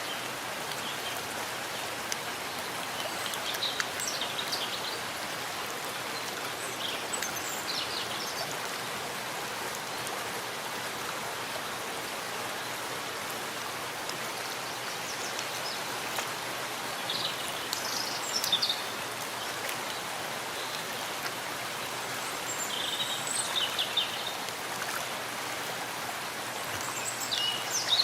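Steady rain falling in a forest, an even hiss of drops on leaves and ground. Short, high bird chirps come through the rain about five times.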